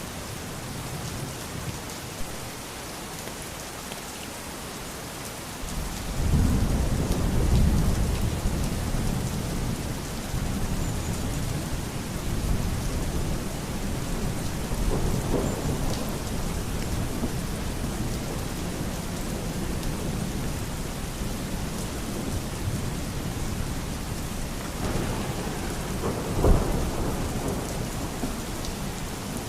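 Steady heavy rain hissing, with rolls of thunder: a long low rumble about six seconds in, and more rumbling midway and near the end.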